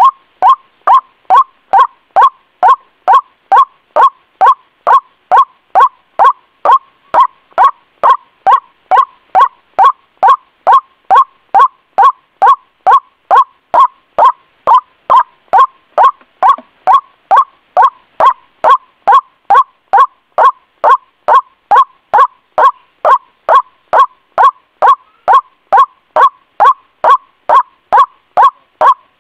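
White-breasted waterhen calling over and over, a short 'ruak' note about twice a second, each one sliding downward in pitch, in a steady unbroken rhythm as used for a lure call.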